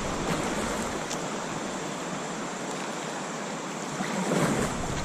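River water rushing around a kayak, a steady hiss; near the end, wind buffets the microphone.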